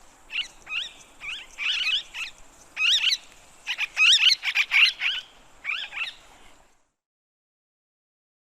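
Parakeet calling: a rapid series of short, shrill chirps and squawks that stops suddenly about six and a half seconds in.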